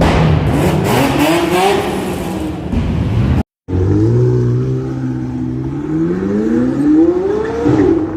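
Sports car engines revving and accelerating away. There is a brief cut about three and a half seconds in, after which one car's engine note climbs steadily in pitch as it pulls away.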